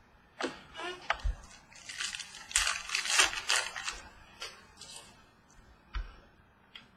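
Crinkling and rustling of a trading-card pack wrapper being torn open and handled, in irregular crackly bursts that are densest about two to four seconds in, with a few soft taps of cards being handled.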